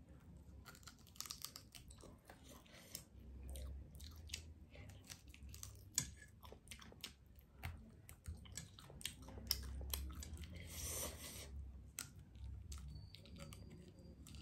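Close-up chewing and biting of fried chicken, with many sharp crunches and crackles as the piece is gnawed, and a brief hiss about eleven seconds in.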